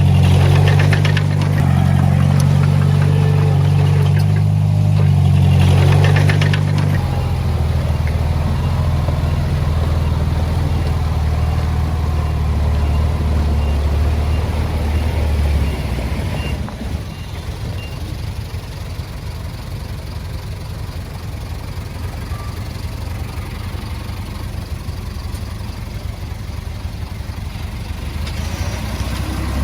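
Heavy diesel engine of earthmoving machinery working hard, shifting to a lower pitch about seven seconds in, then easing down to a quieter, steady idle with a fine regular clatter about sixteen seconds in.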